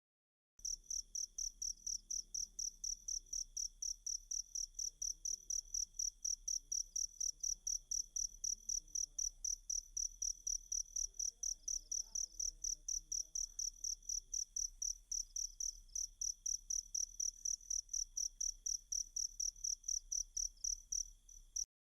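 Cricket (jangkrik) chirping in a steady, even rhythm of about four high-pitched chirps a second. It starts about half a second in and cuts off suddenly near the end.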